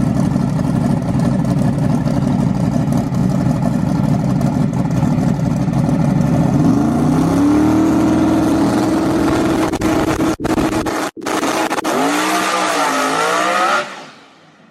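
Twin-turbo drag race car engine running loud and rough, then revving up about seven seconds in and holding a steady higher pitch. Near the end the revs waver up and down before the sound cuts off sharply.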